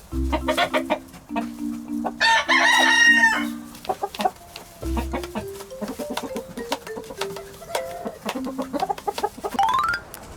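A rooster crows once, about two seconds in, over background music with a steady bass beat. A rising sweep comes near the end.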